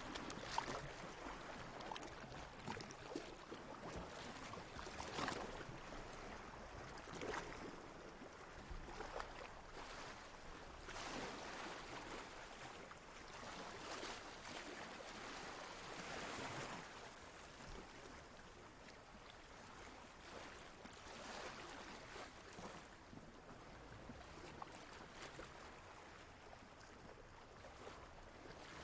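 Water lapping and splashing quietly in an irregular, continuous wash of small splashes.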